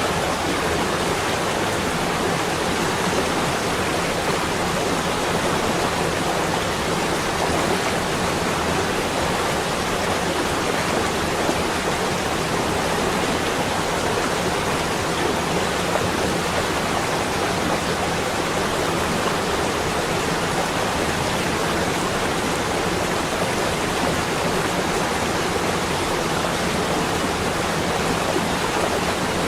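Steady, even rushing noise with no breaks or separate events, like a constant wash of wind or running water.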